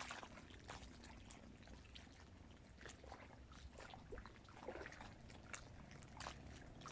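Small waves lapping faintly against the dam's bank, in soft irregular splashes a few times a second.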